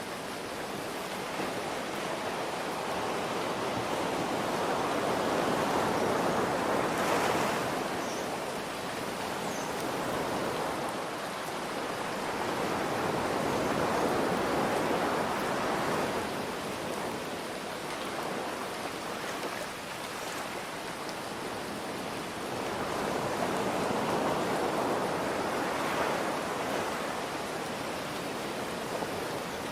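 Ocean surf washing in and out under a steady hiss of rain, the waves swelling and easing three times in slow surges.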